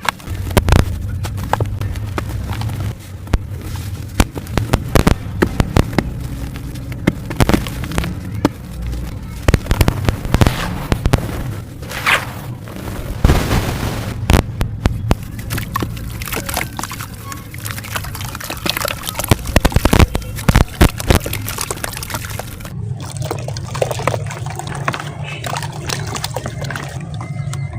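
Dry sand-cement chunks being crushed and crumbled, a dense run of crackles and snaps with crumbs falling. The texture changes abruptly about 23 seconds in.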